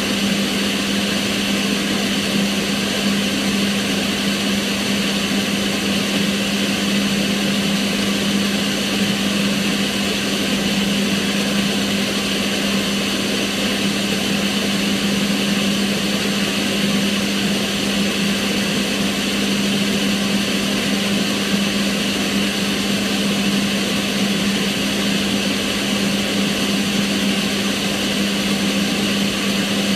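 Kitchen range hood's extractor fan running steadily, with a low motor hum under an even rush of air.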